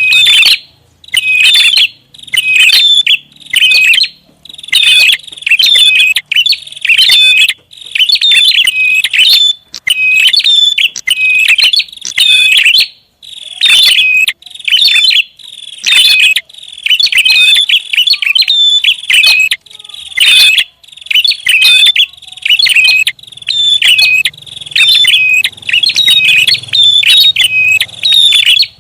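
Prinia (prenjak) calling loudly and insistently: bursts of rapid, high chirping about a second long, repeated over and over with short pauses. This is a lure recording meant to draw in prinias.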